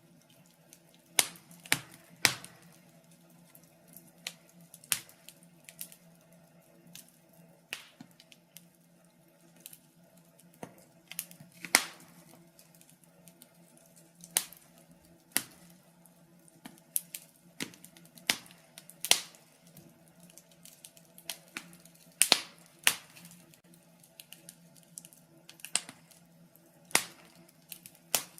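Wood logs burning in a fireplace, crackling with irregular sharp pops and snaps, a few every second or two, over a faint steady low hum.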